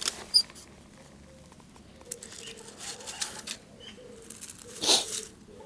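Short rustles and knocks of handling, the loudest a brief swish near the end, with a faint low bird call wavering in the background.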